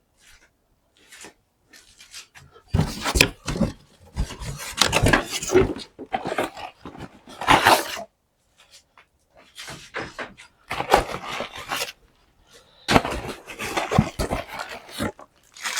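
Irregular bursts of rustling and scraping from parts and packaging being handled, with short pauses between them.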